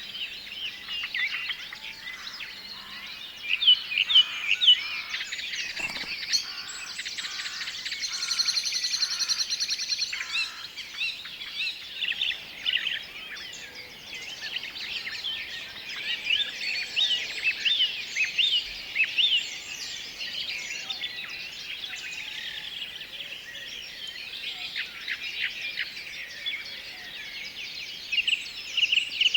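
A chorus of several forest songbirds chirping and whistling over one another in quick, overlapping phrases. About eight seconds in, one bird gives a fast, even trill lasting around two seconds.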